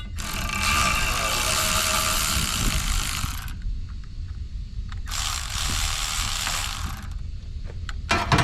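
Ratchet wrench clicking in two long runs, about three seconds and then two, as bolts on the air dryer housing are turned out, with a few knocks near the end.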